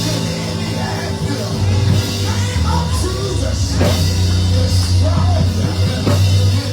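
A church band playing loud, driving music with held bass chords and drums, with voices singing and calling out over it.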